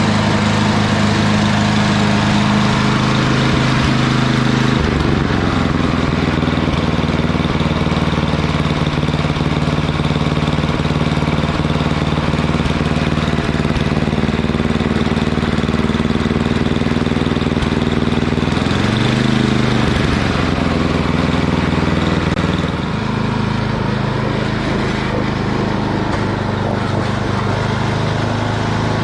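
A small gasoline engine running steadily, with a brief drop in speed and recovery about two-thirds of the way through and a change in its tone near the end.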